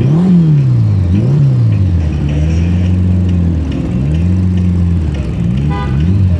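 Motorcycle engines in a slow group ride, revved up and down over and over, so the engine note keeps rising and falling over a steady low running drone. A brief horn toot sounds near the end.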